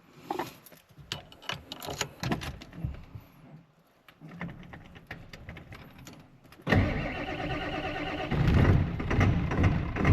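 Clicks and rustles of handling inside the truck cab, then about two-thirds of the way in a 1997 Ford F-350's 7.3L Power Stroke turbo-diesel V8 is cranked and catches, starting suddenly and growing louder a second or so later as it settles into a run. It is a cold start.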